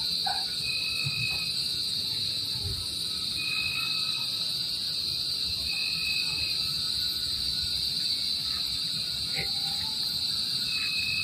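Night outdoor animal sounds: a steady high-pitched insect-like drone, with a short even piping note from an unseen animal repeating about every two and a half seconds.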